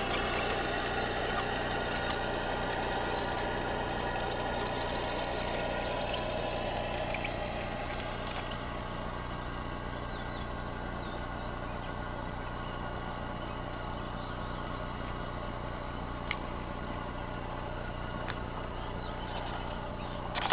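Steady truck-engine idle from a model Kenworth W900 truck, a low even rumble with a rougher mid-range layer that eases off about eight seconds in.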